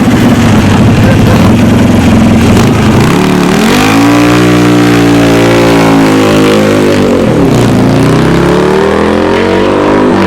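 Custom Buell motorcycle engine being revved hard: it is running, climbs in pitch about three seconds in, holds high, drops back around seven and a half seconds and climbs again near the end.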